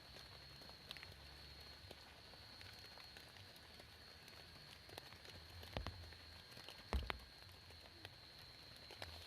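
Light rain dripping: scattered small drip ticks with two louder knocks about six and seven seconds in, over a steady faint high-pitched tone.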